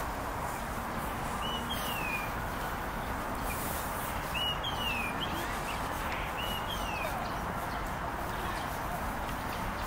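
Small bird calling in short falling chirps, in three pairs a couple of seconds apart, over steady outdoor background noise.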